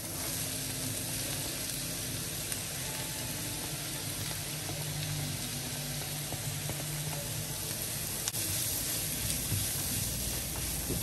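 Chopped onions and bell peppers sizzling steadily as they sauté in oil in a frying pot.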